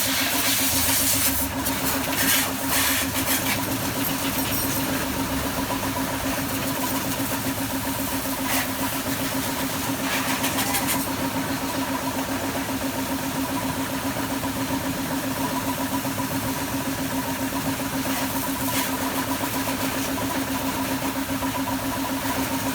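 A motor running steadily at one constant speed, with a fast-pulsing hum and a hiss over it that flares briefly a few times.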